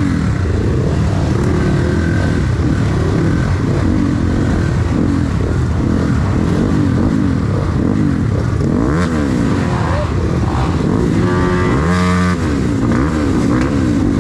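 A group of dirt bike engines running together, several revving over one another so the pitches keep rising and falling. One bike revs up loudly and drops back about twelve seconds in.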